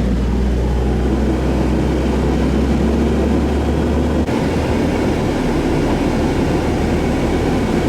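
Car driving noise heard from inside the cabin: a steady engine and tyre hum. About four seconds in, the deepest rumble changes abruptly.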